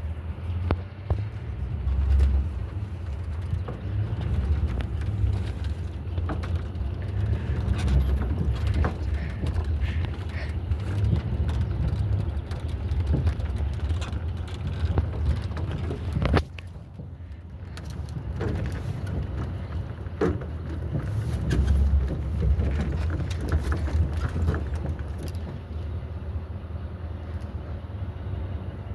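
Truck ride: steady low rumble of the engine and road, with frequent small rattles and knocks. A sharp knock comes about sixteen seconds in, after which the rumble drops briefly and then builds again.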